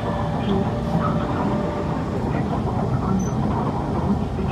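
Interior running noise of a Kawasaki C151 metro train moving at speed: a steady rumble of wheels on rail, heard inside the passenger cabin.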